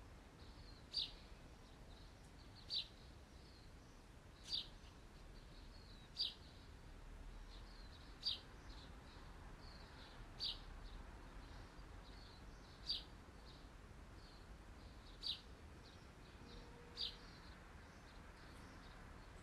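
A bird chirping: about nine short, high chirps spaced roughly two seconds apart, with softer chirps between, over a faint hiss.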